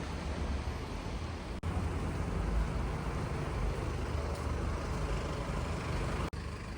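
Steady low rumble of road traffic and engines, cut off for an instant twice.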